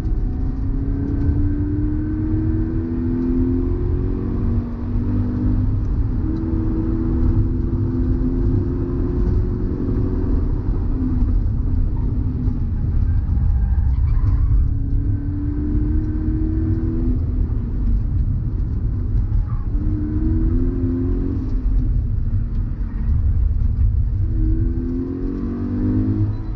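Toyota GT86's 2.0-litre flat-four engine heard from inside the cabin, pulling hard on track: the engine note climbs in pitch, breaks off at each gear change or lift, and climbs again several times. A steady low road and wind rumble runs underneath.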